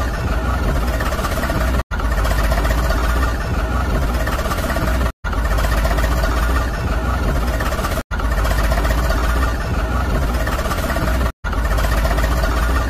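Steady engine running sound with a deep low rumble, cut into stretches of about three seconds by brief drops to silence, four times.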